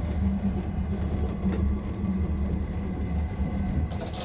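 Indian Pacific passenger train running, heard inside a carriage bathroom: a steady low rumble with light rattles. Near the end the shower comes on with the hiss of spraying water.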